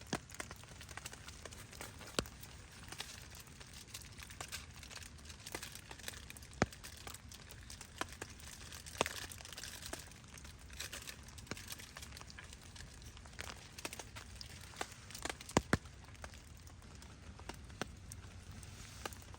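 Rain falling steadily, with scattered sharp clicks and cracks throughout, a few of them louder.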